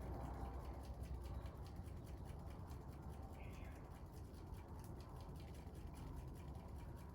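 Faint crackling of a wood fire, many small ticks over a low steady rumble.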